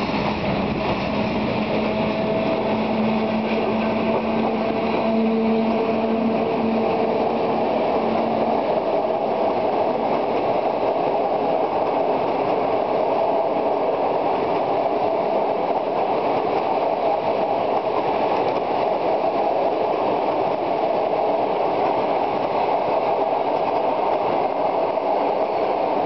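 An EU07 electric locomotive and its passenger coaches passing, a steady rumble and rush of wheels on rails. A humming tone runs under it for the first eight seconds or so, then fades.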